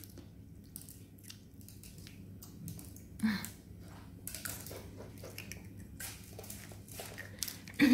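Faint chewing and mouth sounds from a child eating sugar sprinkles off her lips: scattered small clicks over a low steady hum, with a brief voice sound about three seconds in.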